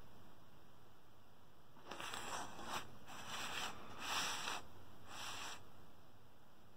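Faint handling noise: four short rustling scrapes, about a second apart, starting about two seconds in.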